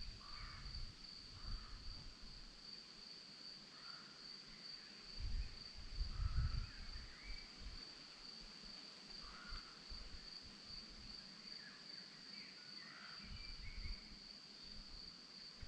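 Crickets trilling in one steady high-pitched drone, with short bird calls scattered through it. A low rumble swells around five to seven seconds in.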